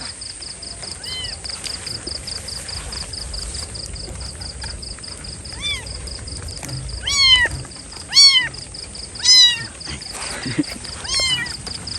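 A kitten meowing six times, each call rising then falling in pitch, the three loudest close together in the middle. The calls are those of a kitten in distress.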